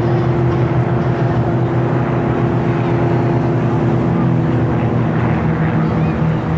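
Propeller aircraft engine running steadily: a loud, dense drone with a constant low hum throughout.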